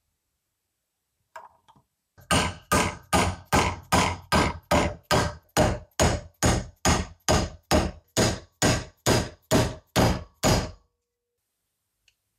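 A hammer striking steadily and evenly, about two dozen blows at roughly three a second, each with a short ringing tail, then stopping.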